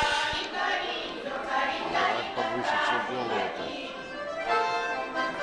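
A folk ensemble's group of voices singing a Russian folk song together, with instruments accompanying.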